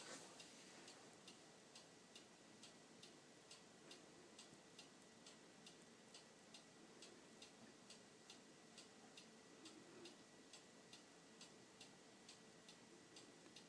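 Faint, steady ticking of a clock, about two ticks a second, against quiet room tone.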